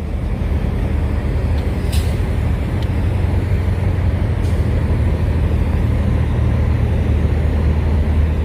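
Steady low drone of a Kenworth W900 semi truck's Caterpillar diesel engine running, with a few faint clicks about two seconds in.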